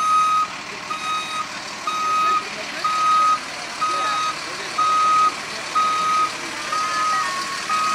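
Vehicle reverse alarm beeping steadily, about one beep per second, each beep a single high tone lasting about half a second.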